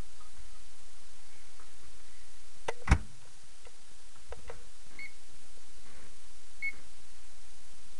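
Microwave oven door shutting with a thud about three seconds in, then a few button clicks and two short keypad beeps as the cooking time is set.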